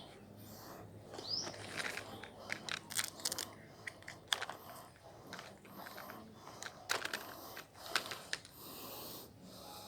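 Irregular small clicks and handling noises, with a short rising bird chirp about a second and a half in.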